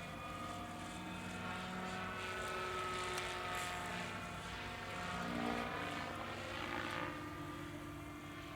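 Lockheed 286 helicopter in flight: a steady turbine whine with rotor sound, its pitch slowly falling. It grows louder a little past the middle, then fades near the end.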